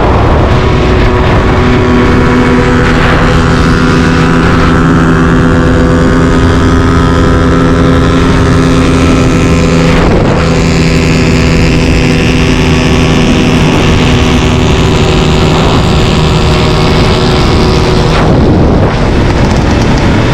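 Motorcycle engine running loud and steady at an even pitch, with wind noise on the microphone.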